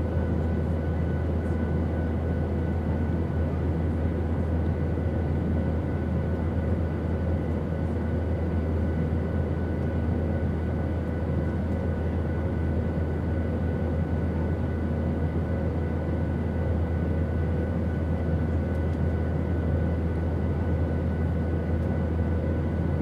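Airplane noise: a steady low drone, with a few faint steady whining tones above it.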